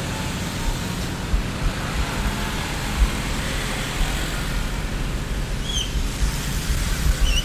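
Street traffic ambience: a steady wash of road noise with a low rumble from passing vehicles. Two brief high chirps come near the end.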